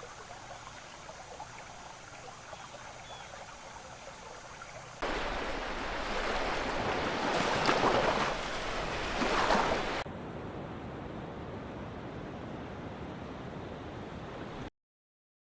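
Nature ambience in cut-together segments: a faint hiss with a few small chirps, then about five seconds of loud rushing water that swells and surges, then a steadier, duller rush that cuts off suddenly near the end.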